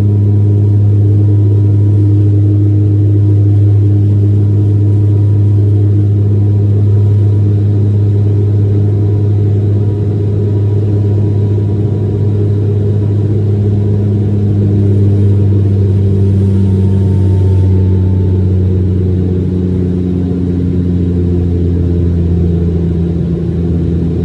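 Dash 8-400 (Q400) turboprop engines and propellers heard from inside the passenger cabin: a loud, steady, deep drone with a few even tones above it that shift slightly in pitch.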